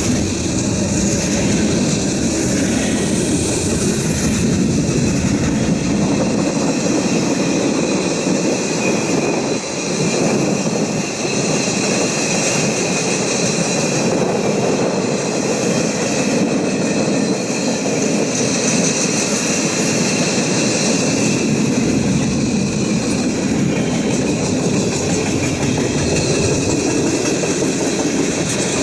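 Freight train of container and goods wagons rolling past at steady speed in a continuous loud rumble, with a thin steady high whine from the wheels on the rails.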